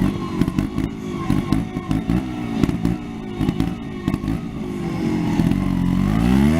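Trials motorcycle engine blipped in short bursts of throttle with sharp popping clicks, then revving up steadily near the end.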